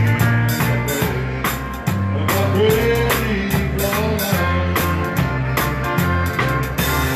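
Live Texas Czech dance band playing, with bass and drums keeping a steady beat under the instruments and a voice singing.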